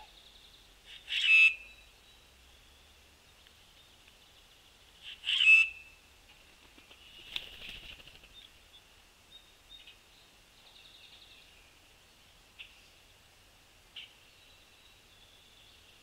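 Outdoor bird-feeder sounds: two loud, harsh bird calls about four seconds apart, each under a second long, over a steady high background chorus. About seven seconds in there is a brief flutter like a large bird landing, and two sharp ticks near the end.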